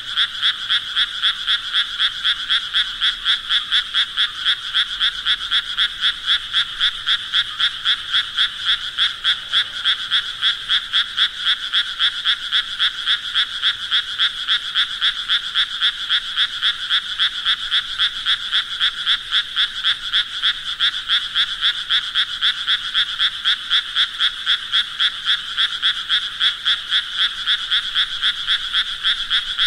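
Frogs croaking in a steady, even rhythm of about three calls a second, kept up without a break.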